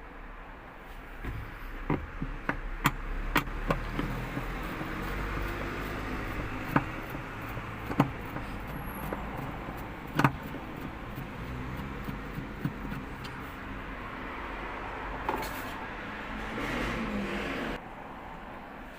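Sharp metal clicks and knocks of hand tools on washing machine parts as the fan is taken off, about nine scattered clinks over a steady hiss that cuts off suddenly near the end.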